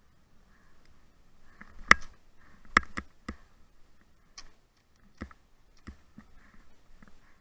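A series of sharp, irregular clicks and knocks, seven or so over several seconds, the loudest two about two and three seconds in.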